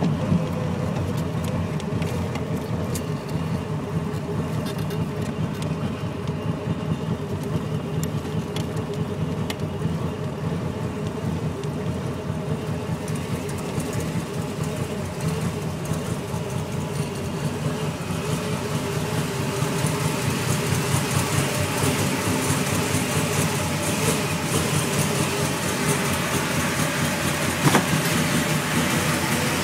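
Engine of a 1922 T-bucket hot rod running steadily with an even rumble, under way at first and then idling; more hiss joins the rumble about halfway through.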